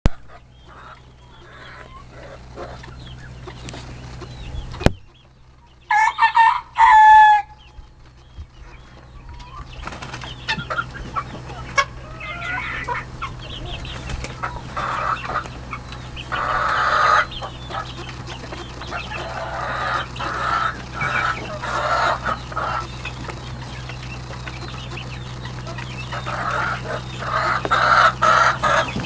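Chickens clucking and squawking, with two loud calls about six and seven seconds in, over the steady low hum of a small tractor engine running.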